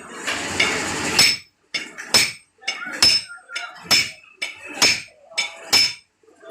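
A hammer striking metal motorcycle crankshaft parts: six sharp, ringing blows about a second apart, the crankshaft and connecting rod being knocked into place.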